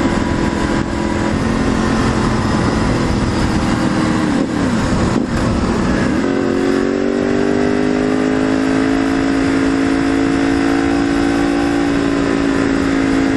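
Motorcycle on the move with heavy wind rumble on the microphone. Its steady engine note breaks up and drops about four to six seconds in, then climbs slowly as the bike speeds up again.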